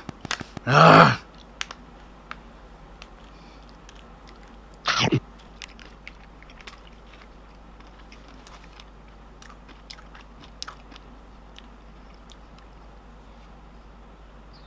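A person chewing a mouthful of dry 3-in-1 instant coffee powder, with faint mouth clicks and smacks scattered throughout. Two brief louder sounds come about a second in and about five seconds in.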